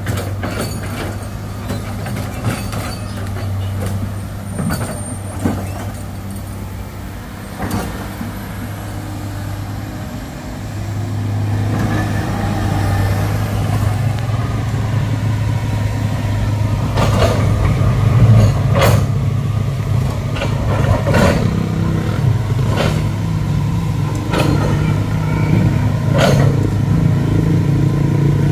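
Heavy diesel engine running steadily under load, growing louder about ten seconds in, with sharp knocks and clanks every few seconds.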